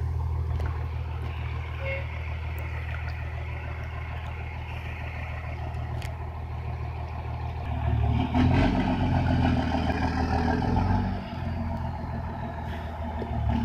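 Heavy truck engine running steadily, then louder and under more load from about eight seconds in.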